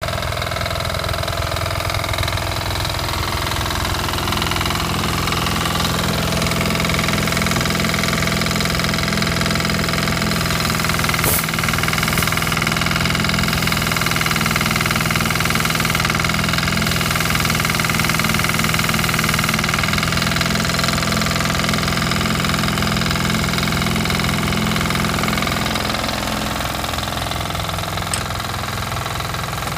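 Yanmar diesel engine of a towed power washer running steadily. Higher steady tones join about six seconds in, and there is one sharp click about eleven seconds in.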